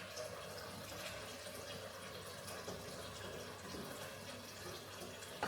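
Water running and splashing, like a tap running into a sink or basin, with small scattered clicks and drips.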